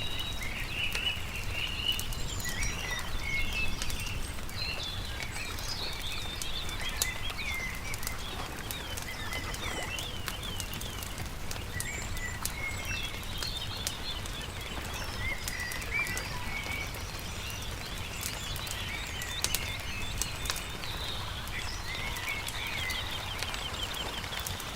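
Songbirds chirping and trilling continuously over a crackling campfire, with sharp pops scattered throughout and a steady low rumble underneath.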